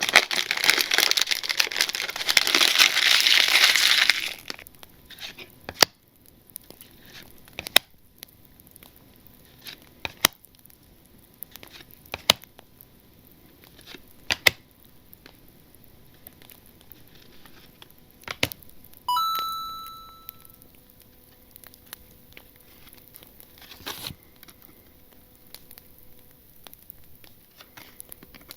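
Foil card-pack wrapper from a Panini Zenith football card box crinkling and tearing open for about four seconds, then the sparse light clicks and taps of cards being handled. About 19 seconds in, a single short ringing ping fades out.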